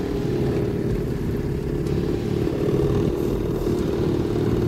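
Boat engine running steadily, a continuous low hum with no change in speed.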